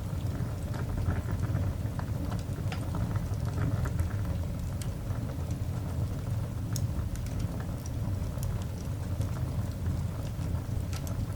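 Coal fire burning in a cast iron dog grate: irregular small crackles and pops over a steady low rumble.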